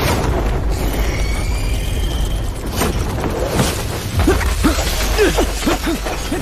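Animated battle sound effects over an orchestral score: a low rumble with crashing impacts, then from about four seconds in a run of short rising-and-falling tones.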